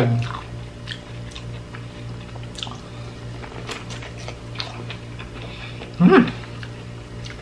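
Chewing and biting into juicy grilled corn on the cob, with many small wet clicks and crunches, over a steady low hum. A short vocal sound comes about six seconds in.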